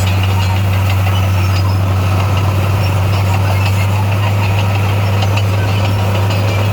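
Diesel engine of heavy earthmoving machinery running steadily with a deep, even hum, and faint scattered clicks over it.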